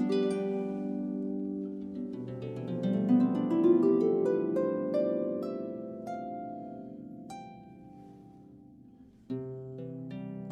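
Solo harp playing: a flurry of plucked notes swells and then rings away, fading almost to nothing before a new chord is struck near the end.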